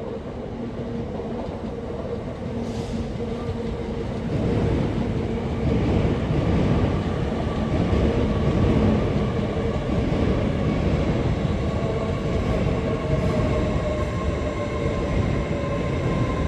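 LNER Class 801 Azuma electric multiple unit pulling into the platform: a rumble of wheels and running gear that grows louder about four seconds in, with a steady electrical whine.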